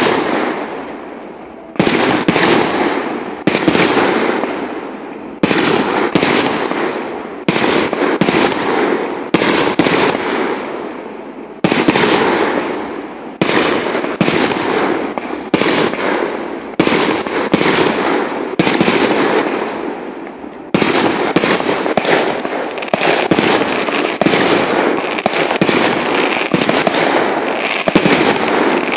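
Aerial firework shells bursting one after another, a sharp bang every second or two, each trailing off as it fades. The bangs come closer together near the end.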